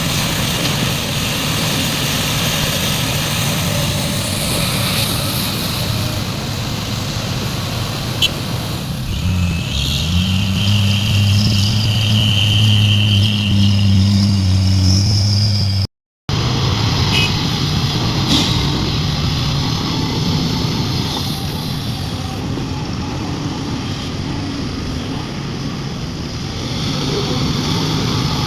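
Heavy diesel machinery running: a large hydraulic excavator working and loading a dump truck. About ten seconds in, a deep, steady engine note comes up louder for several seconds, as if under load. Then the sound cuts out for an instant and the engine noise carries on.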